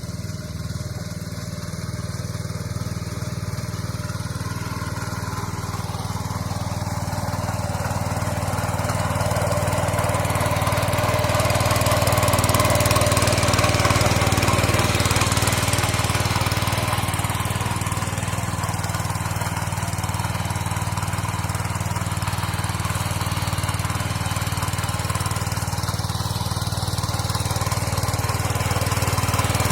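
Mini tractor engine running steadily while it works a rotavator, growing louder over the first dozen seconds and then holding level.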